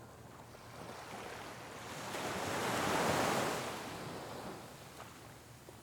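Ocean surf: a wave washing in, its rush swelling to a peak about three seconds in and then fading away.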